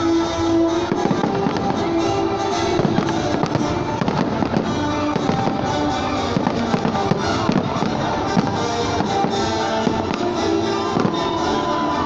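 Fireworks display: many bangs in quick, irregular succession, with music playing at the same time.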